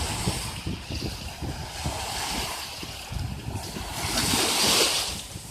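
Sea waves washing onto the shore, one louder wave hissing in about four seconds in and then fading, with wind buffeting the microphone.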